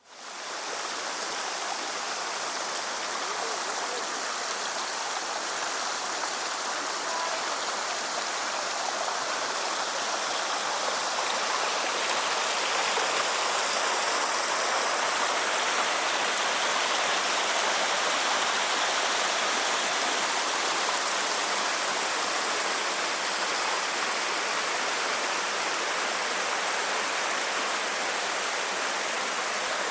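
A small waterfall on a brook: a steady rush of falling, splashing water that cuts in suddenly and holds even throughout.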